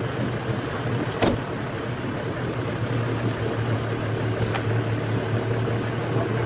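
Four-wheel-drive wagon's engine running steadily as the vehicle pushes through deep floodwater, with water rushing and splashing around the body. A short sharp knock sounds about a second in, and a fainter one later.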